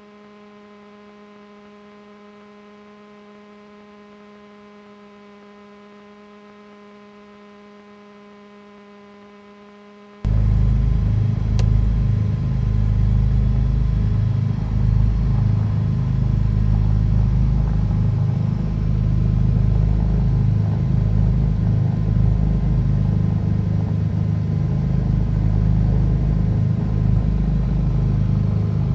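A faint steady electrical hum, then about ten seconds in a sudden cut to the loud, steady low rumble of a Cessna 310's twin piston engines idling, heard inside the cabin.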